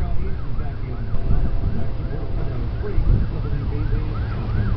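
Emergency vehicle siren yelping, its pitch rising and falling about two to three times a second without a break, over a strong low rumble.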